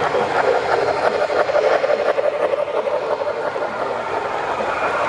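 A train running along the track: steady wheel-on-rail noise with many small irregular clicks.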